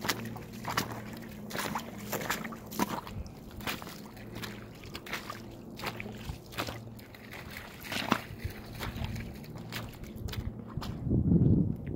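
Footsteps in fresh snow at a walking pace, each step a short crunch. Near the end there is a louder low rumble lasting under a second.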